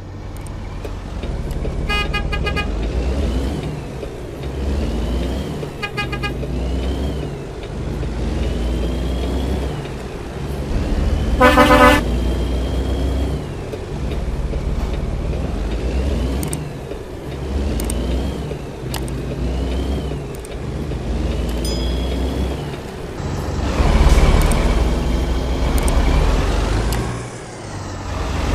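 Steady road and engine rumble of highway driving, broken by short stuttering horn beeps twice early on and a loud horn blast about midway. The rumble swells louder near the end, as of a large vehicle close by.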